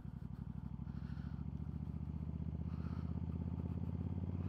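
Suzuki Marauder cruiser motorcycle engine running while riding at low speed, a steady, rapid train of low exhaust pulses that slowly grows louder.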